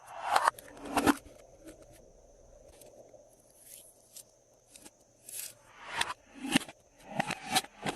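Glossy slime being mixed and pressed by hand, giving irregular sticky clicks and pops. They come in clusters at the start and again through the second half, with a quieter stretch in between.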